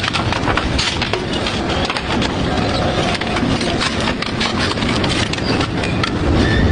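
Industrial double-shaft shredder chewing through scrap, a continuous loud crunching with a dense run of sharp cracks and snaps.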